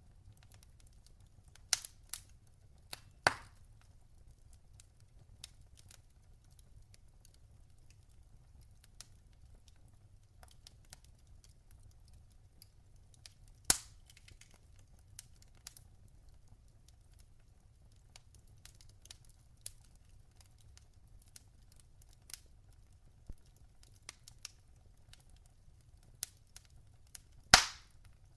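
Logs burning in a fireplace, popping and cracking now and then over a low steady rumble. Loud sharp pops come about two and three seconds in, again about halfway, and near the end, with faint ticks between.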